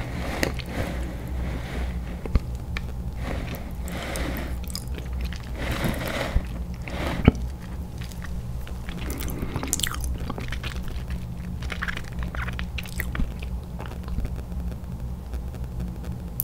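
Chewing and crunching of food, with irregular short crunches and clicks over a steady low hum.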